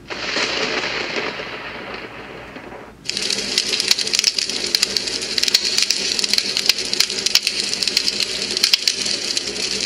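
AVANTEK white noise machine playing its recorded sounds: a rolling noise from the thunder track that fades over about three seconds, then an abrupt switch about three seconds in to the fireplace track, a steady crackle of burning logs with dense sharp pops.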